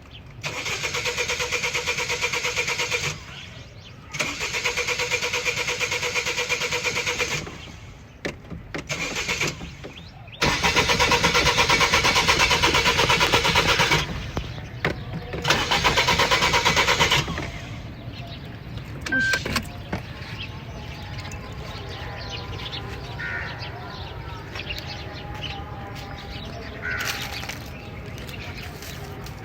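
Car starter cranking the engine in five long attempts of about two to four seconds each, with the engine not catching: a hard start. After the last attempt a quieter steady hum carries on.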